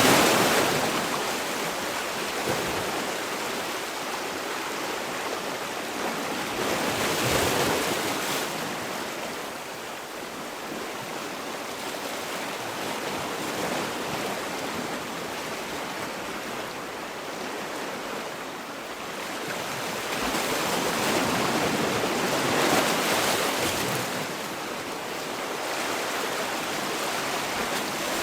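Sea waves breaking and washing on the shore, a steady rush of surf that swells into louder breakers every several seconds.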